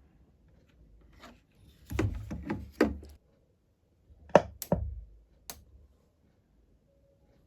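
Sharp clicks and pops from a DigiTek DBS200 Bluetooth speaker as its volume control is turned: a cluster of several about two seconds in, then three more about four and a half to five and a half seconds in. The speaker gives only this noise and no music, and the repairer traces the fault to its volume potentiometer.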